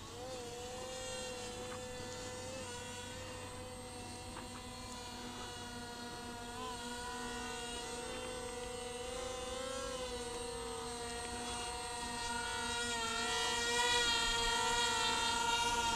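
XK X450 RC plane's electric motors and propellers whining steadily in flight, with small wobbles in pitch, growing a little louder and higher in the last few seconds.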